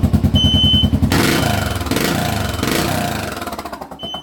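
2008 Suzuki Boulevard S40's single-cylinder engine, breathing through a short reverse-cone aftermarket muffler, idling with even firing pulses. About a second in it is revved once, then settles back toward idle near the end. A high smoke-alarm beep sounds briefly shortly after the start and again at the very end.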